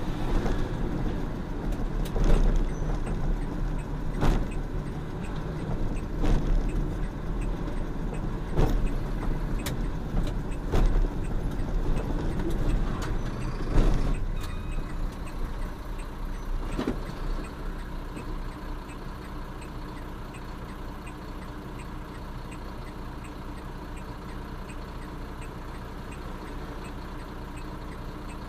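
Inside a truck cab on the move: steady engine and road rumble with a series of sharp knocks, roughly every two seconds, through the first half, then a steadier, quieter run.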